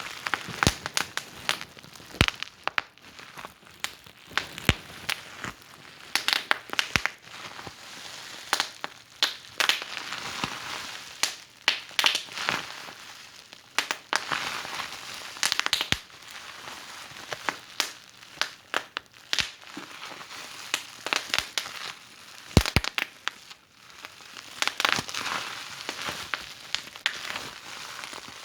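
Wood fire in a fireplace crackling, with irregular sharp pops and snaps over a soft hiss of burning.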